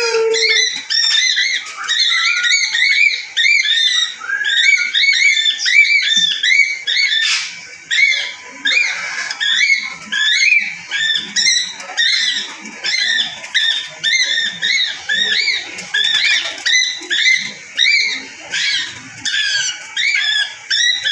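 A flock of parrots chirping and chattering: many short, high, arching calls a second, overlapping without a break.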